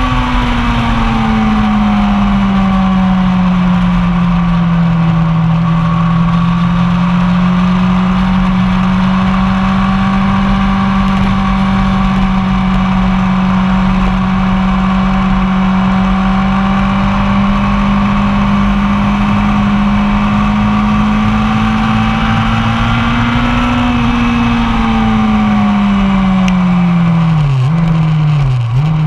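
1999 Yamaha R1's inline-four engine under way on track, its note held nearly steady for most of the stretch over a constant rush of noise. Near the end the revs rise a little, then fall away with two sharp dips in pitch.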